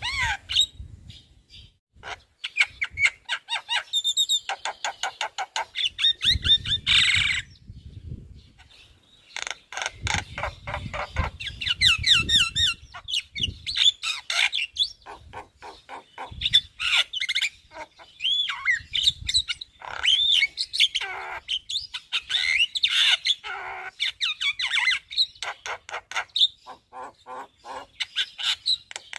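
Javan myna singing in full voice, running through its repertoire of phrases: fast strings of rattling clicks mixed with gliding whistles and harsh squawks, with short pauses between runs.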